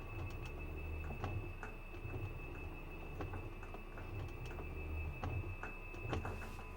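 Washing machine in its spin-dry cycle: a low hum that swells and fades about once a second, with scattered light clicks and a steady high-pitched whine.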